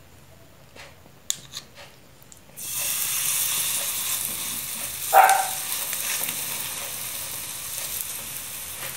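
Soy-meat burger mixture sizzling in hot oil in a frying pan. The sizzle starts suddenly about two and a half seconds in as the mixture goes into the pan, and holds steady after a few light clicks at the start.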